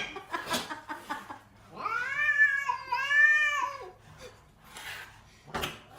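A cat yowling: one long drawn-out call lasting about two seconds, with a brief dip in the middle, plus a few short rustling noises around it.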